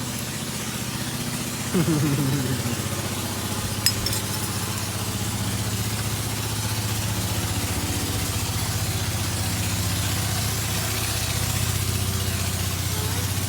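An engine idling steadily with an even low hum. A short falling cry comes about two seconds in, and a sharp click just before four seconds.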